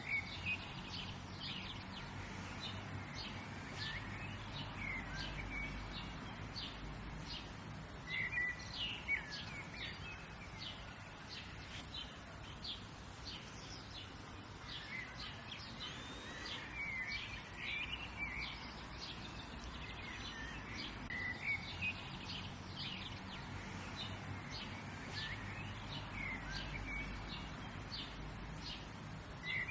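Several songbirds chirping and calling over a steady low background rumble of ambient noise.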